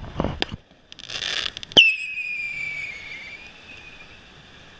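Consumer fireworks going off: a few sharp cracks at the start, a hissing rush about a second in, then a loud bang followed by a high whistle that falls slightly in pitch and fades over about two seconds.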